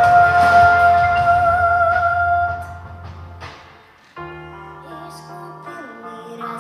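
A woman singing a long held high note over instrumental accompaniment, gliding up into it and holding it with a slight vibrato; the music then fades to a brief pause about four seconds in, and a quieter instrumental passage of sustained chords begins.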